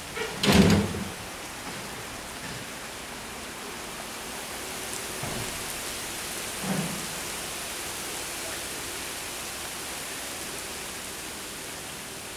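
Steady rain falling, an even hiss. A loud low thump breaks in about half a second in, and a softer one follows near seven seconds.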